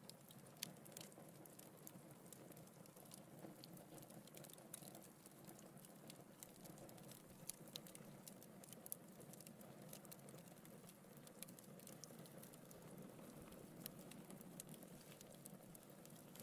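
Wood fire burning in a fireplace, crackling with frequent faint pops and snaps over a low steady sound of the flames, a few sharper snaps standing out.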